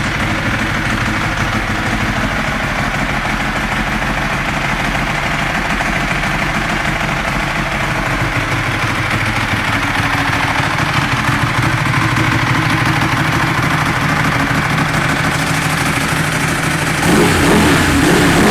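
Ducati Streetfighter 1098S's 1099 cc L-twin engine running at a steady idle through twin Termignoni exhausts. About a second and a half before the end it steps up in level.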